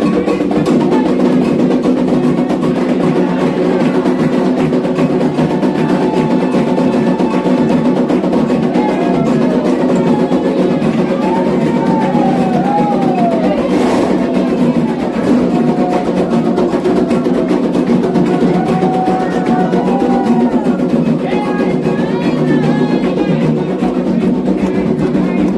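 Candomblé ritual music: atabaque hand drums playing with a group of voices singing a chant for Xangô.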